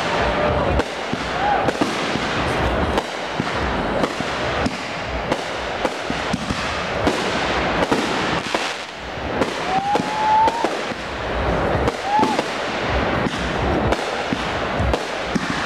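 Aerial fireworks display: a dense run of bangs and crackling bursts, several a second, going on without a break.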